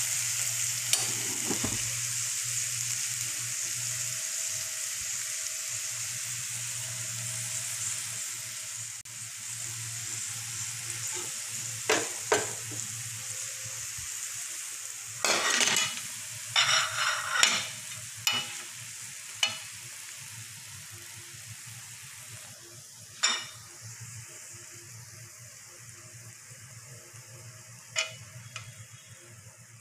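Prawns and pointed gourd sizzling in oil in a karai while a metal spoon stirs, with the spoon scraping and knocking against the pan now and then, more often in the second half. The sizzle slowly dies away. The oil is separating out of the mixture, the sign that the dish is nearly cooked.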